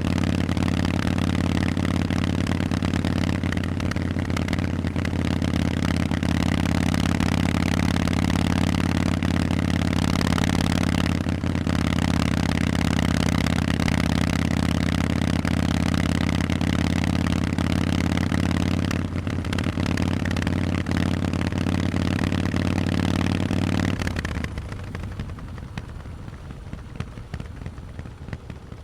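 Harley-Davidson Forty-Eight's 1200 cc V-twin running through Vance & Hines exhausts at a steady engine speed. About 24 seconds in, the engine note drops away sharply and the sound becomes much quieter.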